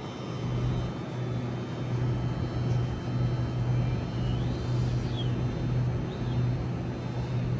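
Electric passenger train standing at a station platform, its onboard equipment giving a steady low hum that swells and eases slightly, with doors open before departure.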